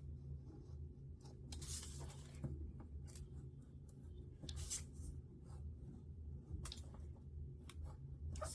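Paper being cut out by hand: scattered scratchy strokes of a blade working through paper, with the sheet rustling now and then, over a steady low hum.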